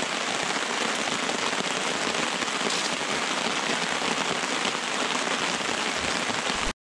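Steady rain pattering on the tarp overhead and the forest floor, with a dense patter of many small drops; it cuts off abruptly near the end.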